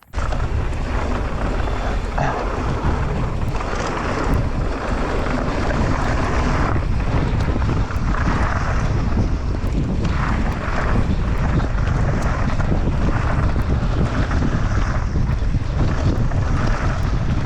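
Wind buffeting the microphone of a camera on a mountain biker riding fast downhill, over a steady low rumble of the bike on rough ground.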